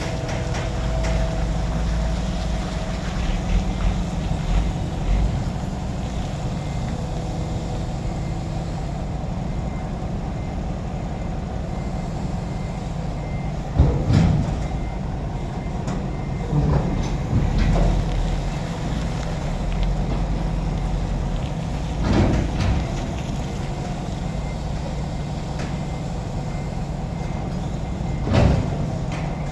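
Container truck's diesel engine running steadily at low revs, with a faint repeated beeping. Several short louder sounds break in: a sharp one about halfway through, then others about three, eight and fourteen seconds later.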